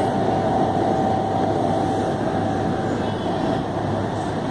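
Steady ride noise of an electric commuter train running at speed, heard from inside the passenger car: a continuous rumble with a steady high whine that fades about three seconds in.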